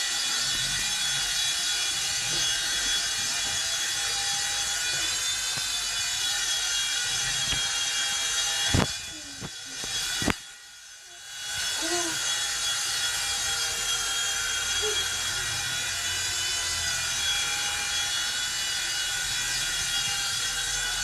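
WLtoys V911 Pro RC helicopter's electric motor and rotor running with a steady high whine. About nine seconds in a sharp knock comes and the whine drops away, a second knock follows a second and a half later, and the motor winds back up about twelve seconds in.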